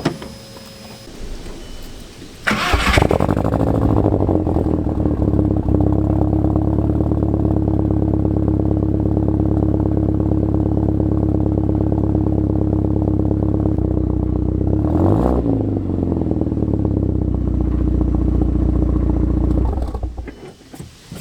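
Turbocharged car engine cranking and catching about two and a half seconds in, then running at a steady idle. There is a brief change in engine speed about two-thirds of the way through, and it is switched off near the end. The exhaust still holds standing water from a pressure wash and rain, and the water shot out on start-up.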